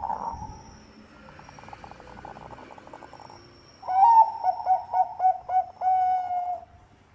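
Zebra dove (perkutut bangkok) cooing: a faint rapid run of notes, then about four seconds in a loud phrase of quick staccato coos ending in a longer held note.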